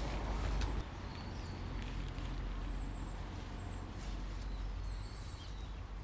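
Small birds giving short, thin, high whistled calls, repeated several times, over a low rumble that is loudest in the first second, with a few sharp clicks.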